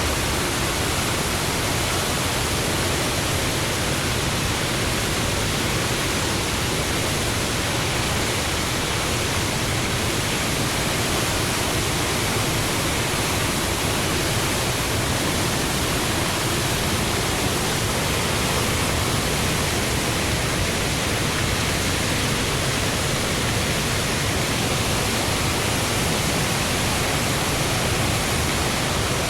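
Steady, even rushing noise from a sound-effects record, with no pitch, rhythm or separate events.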